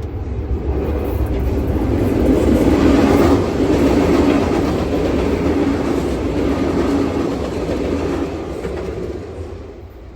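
SEPTA train running along the rails, growing louder to a peak about three seconds in, then slowly fading away.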